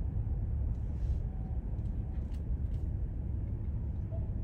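Steady low road and engine rumble heard inside a moving car's cabin, with a few faint clicks about one to three seconds in.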